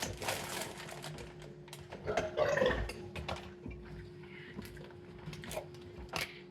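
Scattered light clicks and taps of dishes and utensils being handled, with a short low vocal sound about two seconds in, over a steady faint hum.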